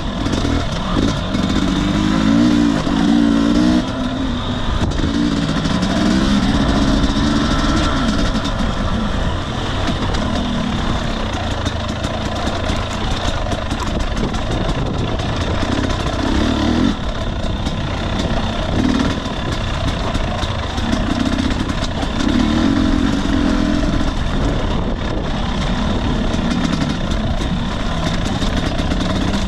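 Husqvarna TE250i dirt bike's 250 cc two-stroke single-cylinder engine running on a trail ride, its note swelling and dropping back every few seconds as the throttle is worked on and off.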